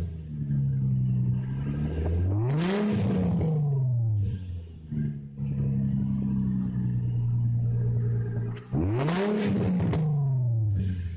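A sports car's exhaust idling steadily, with two quick throttle blips: the engine revs up and falls back about two seconds in and again about nine seconds in.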